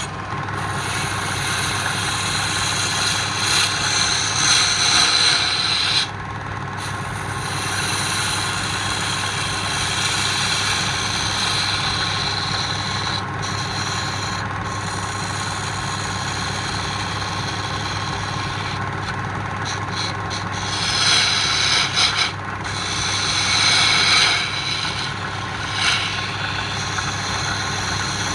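Wood lathe running with a steady motor hum, while a turning tool cuts the spinning wood in stretches, giving a hissing, scraping noise that comes and goes.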